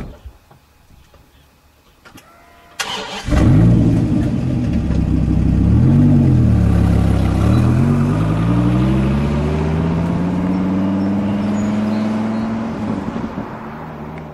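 A car engine is cranked and catches about three seconds in, is revved up and back down, then climbs steadily in pitch as it accelerates, fading near the end.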